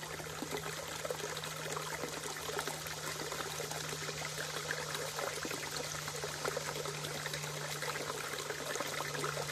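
Small creek flowing and trickling over rocks, a steady babbling water sound, with a steady low hum underneath.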